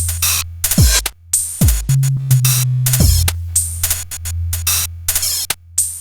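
Downtempo electronic tracker music: a drum-machine beat of deep kick drums that drop sharply in pitch and noisy hi-hat and snare hits over a deep held bass line, with short breaks about a second in and near the end.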